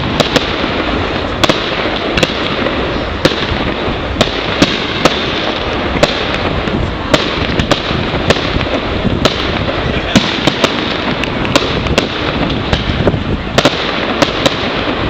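Fireworks display: a dense, continuous crackle and rumble with sharp bangs of bursting shells coming irregularly throughout, bunching closer together near the end.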